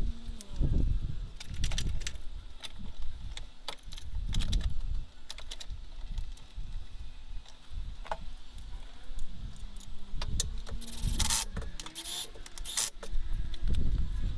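Metal clinks, knocks and rattles of hand tools and bolts as a gearbox mount is fitted to an engine and gearbox, with two short scraping bursts near the end.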